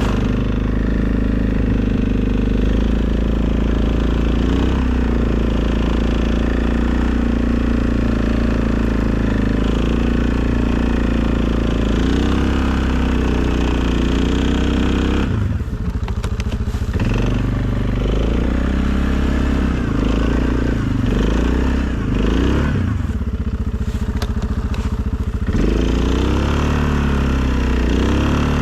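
Engine of a 2020 Suzuki KingQuad ATV, a single-cylinder four-stroke, running steadily during snow plowing for about the first half. In the second half its revs drop and rise again several times.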